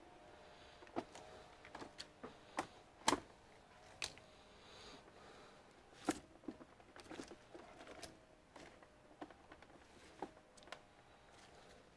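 Irregular sharp clicks and taps of plastic computer housing parts being handled and pressed together, about a dozen in all, the loudest about three seconds in.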